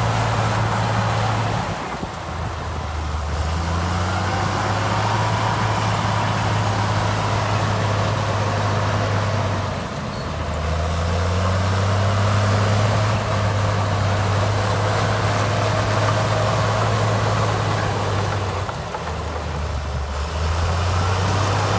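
Heavy earthmoving machine's diesel engine running under load. It drops three times, roughly every eight to nine seconds, then rises back in pitch each time.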